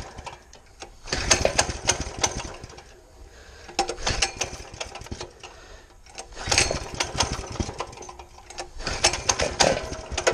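Small mini bike engine being started cold on choke: four short bursts of firing a couple of seconds apart, each catching briefly and then dying. The engine is cold natured and slow to start when cold.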